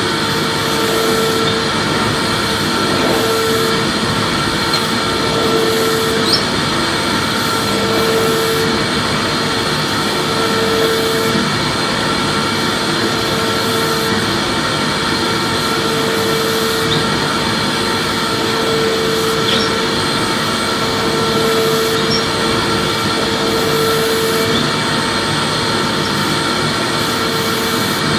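Vacuum cleaner motor running steadily: a dense rushing whine with several fixed high tones. A lower hum swells and fades about every two and a half seconds.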